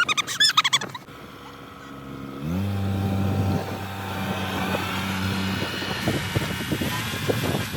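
Tractor engine revving up about two and a half seconds in, then running steadily, with a rougher rumbling noise coming in as it moves off.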